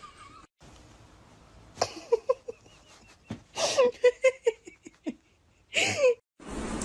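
A person laughing in short, quick bursts, ending in one longer laugh that falls in pitch.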